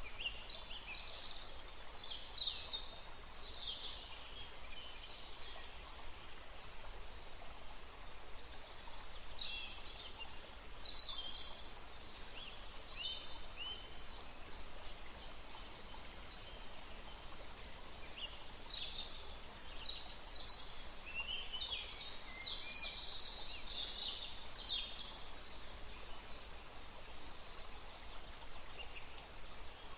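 Woodland birds singing: groups of short, high chirps and falling trills come and go, with quieter gaps between them, over a steady soft background hiss of forest ambience.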